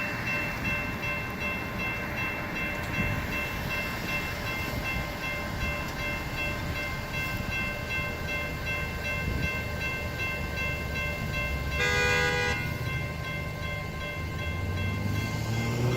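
Level-crossing warning bell ringing steadily. About twelve seconds in, the arriving CTA Bombardier 5000-series train gives one short horn blast. Near the end the train's rumble builds and its motor whine rises in pitch.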